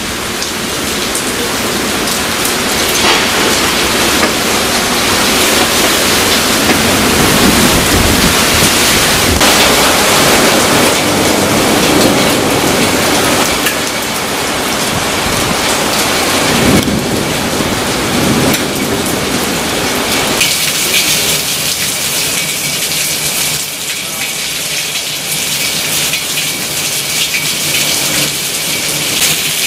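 Heavy thunderstorm rain pouring down hard in strong wind. A deep low rumble runs under it through the first two-thirds and then eases off.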